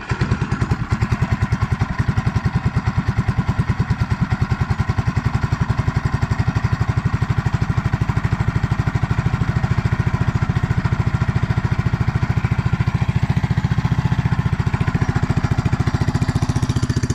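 Go-kart's small engine running steadily at a low, even speed, a fast regular putter of firing pulses.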